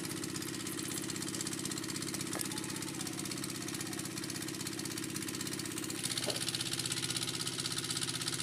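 An engine running steadily with a fast, even beat, growing louder and hissier about six seconds in.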